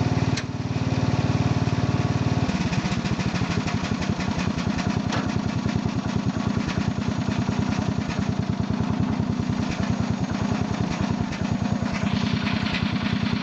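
Lawn tractor's 12 hp Briggs and Stratton petrol engine running. About two and a half seconds in, the even engine note changes to a lower, rapidly pulsing run that carries on steadily.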